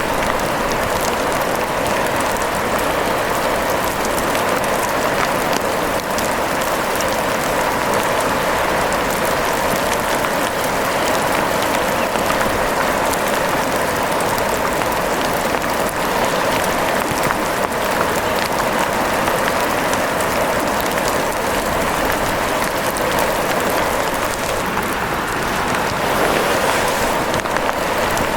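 Steady rain, an even dense hiss scattered with fine drop ticks.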